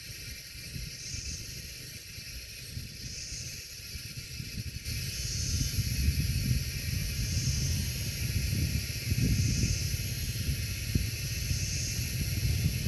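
Wind buffeting the microphone as a low, uneven rumble that grows stronger about five seconds in, over a high hiss that swells and fades about every two seconds.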